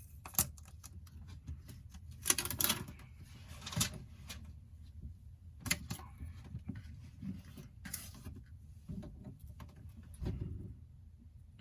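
Small hand tools clicking and scraping against iPhone 8 parts during the repair, in scattered light clicks with a short cluster of scraping a couple of seconds in.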